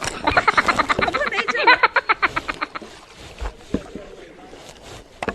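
A person laughing hard in rapid bursts for about three seconds. Then quieter kayak paddling, with a couple of sharp knocks.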